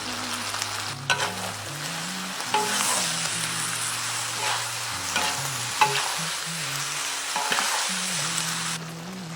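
Food sizzling in a pan as it is stir-fried, with a spatula knocking and scraping against the pan about five times. The sizzle cuts off shortly before the end.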